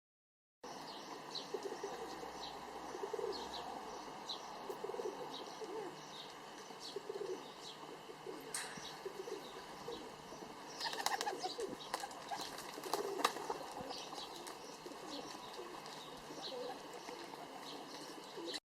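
Birds calling: small birds chirping over and over with lower cooing calls beneath. A cluster of sharp flutters, like wingbeats, comes a little past the middle.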